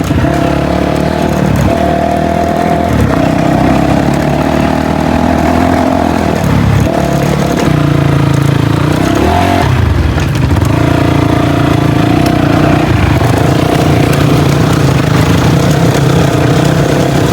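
Dirt bike engine running under way, its engine speed rising and falling several times.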